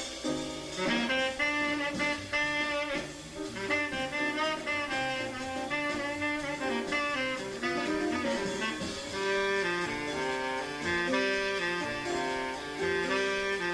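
Jazz tenor saxophone playing a fast, unbroken line of short notes, with a bass line stepping underneath.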